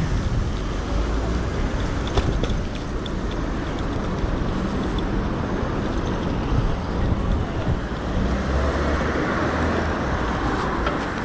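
Wind rushing over the microphone and tyre noise from an electric bike riding along, with a few short rattling clicks as it goes over bumps.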